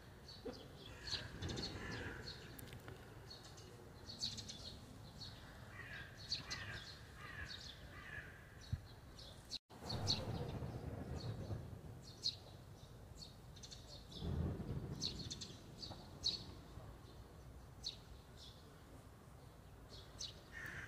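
Small birds chirping: many short, high chirps scattered throughout, with some lower calls in the first half. The sound drops out for an instant about ten seconds in, and a low rushing noise swells briefly twice after that.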